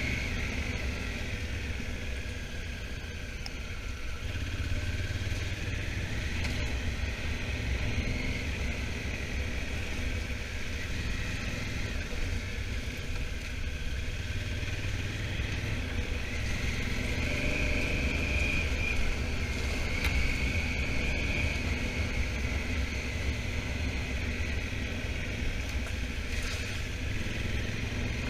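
Honda Africa Twin motorcycle running steadily on the move, its engine a constant low rumble with a wavering higher whine over it.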